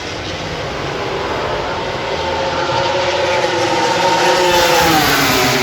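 MotoGP racing motorcycle engine running at high revs, growing louder for a few seconds and then dropping in pitch near the end as the bike passes by.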